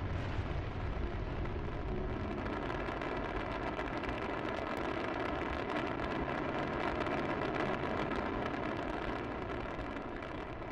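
A loud, steady rumbling roar with a hum running through it, easing slightly near the end.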